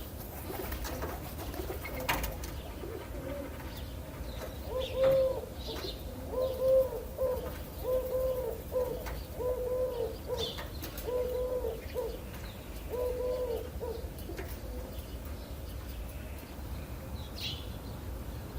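A dove cooing: a series of about eight short, low, evenly spaced coos, roughly one a second, that stops about two-thirds of the way through. A few brief high chirps from other birds come in over a steady low background rumble.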